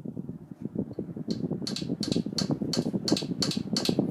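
1987 Halsey 52-inch ceiling fan speeding up on high, its low rumble growing louder. From about a second in comes a sharp tick about three times a second: the blades striking the screws.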